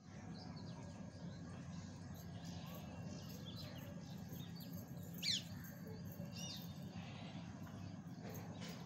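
Birds chirping in short, high calls over a steady low hum, with one louder sweeping chirp about five seconds in.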